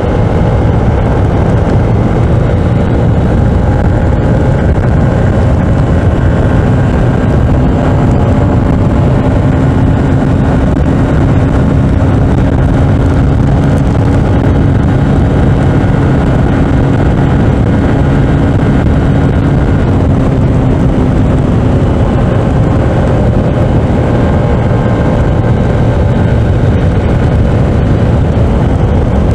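Honda CB125F's small air-cooled single-cylinder four-stroke engine running flat out near its top speed, mixed with heavy wind rush. The engine note holds steady, drifting slightly up and back down through the middle.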